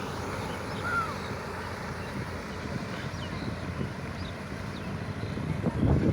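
Sonalika tractor engine running steadily while working mud land, growing louder near the end.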